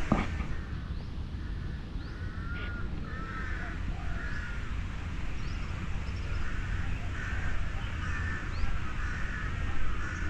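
Crows cawing over and over in a series of short arched calls, with small birds chirping higher up over a steady low rumble. A short knock sounds right at the start.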